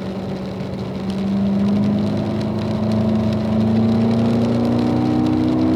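Car engine pulling under light, gradually increasing throttle, its pitch rising slowly and steadily as the car accelerates.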